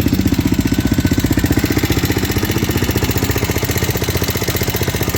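Husqvarna SM610 supermoto's single-cylinder four-stroke engine idling with a steady, rapid pulse. The engine is known to knock.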